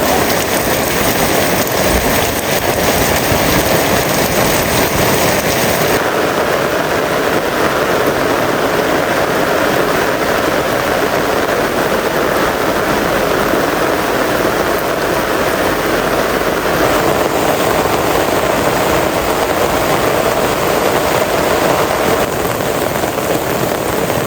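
Heavy rain falling in a steady downpour, its texture shifting abruptly a few times.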